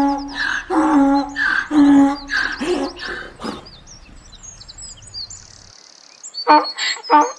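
Birds calling: a run of repeated pitched calls for the first few seconds, then high chirping and twittering, then a fresh series of quick repeated calls near the end.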